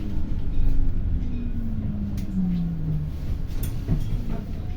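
Inside a city bus: a whine from the drive falls steadily in pitch over about three seconds as the bus slows, over a low road rumble. A few short knocks come near the end.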